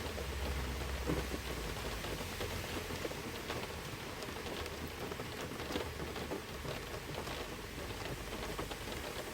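Steady rain falling and pattering on a surface, with many individual drops ticking sharply.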